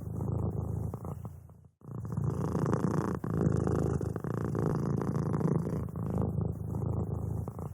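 Domestic cat purring close up, a continuous low rumble that pauses briefly about two seconds in, then resumes.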